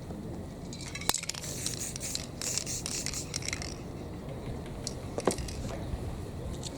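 An aerosol spray-paint can hissing in a burst of about three seconds that flickers in and out. A sharp click comes just as it starts, and another knock falls about five seconds in.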